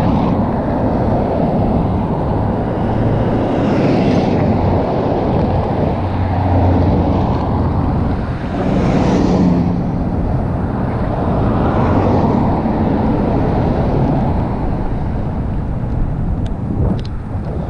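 Loud, steady wind rush buffeting a GoPro Hero 5 Black's microphone while riding a mountain bike.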